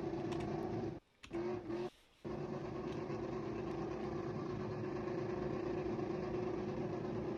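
Vehicle engine held at steady high revs during a burnout. The sound cuts out briefly twice, about one and two seconds in.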